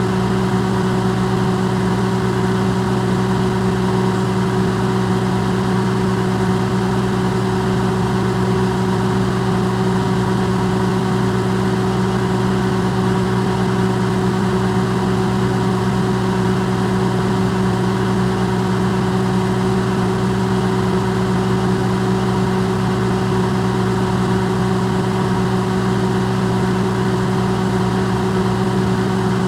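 Electrolux microwave oven running, recorded close up and amplified: a steady hum of several low tones over an even noise, unchanging throughout.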